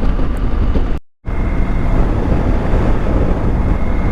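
Motorbike riding at speed: wind rushing over the microphone over the engine and road noise. The sound cuts out for a moment about a second in, then carries on as before.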